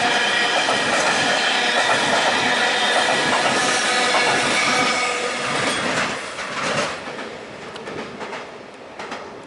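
A train passing close by, its wheels giving off several steady high squealing tones over the rumble of the running gear. About six seconds in it fades as the train moves away, with a few sharp clicks from the wheels.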